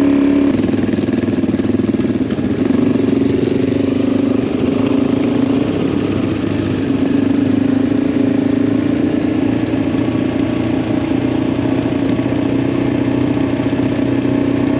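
Adventure motorcycle engine running steadily at a fairly even pitch, with a slight dip in revs about two seconds in.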